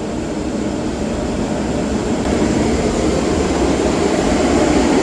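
Oil-fired boiler burner firing steadily, its oil rate just turned up during combustion tuning: an even rushing roar of burner fan and flame that grows slightly louder.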